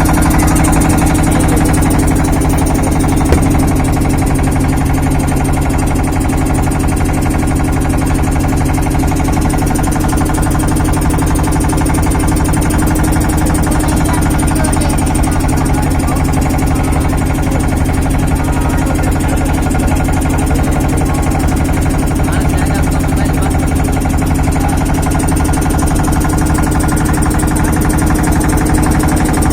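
A steady, loud engine-like hum with no change in pitch.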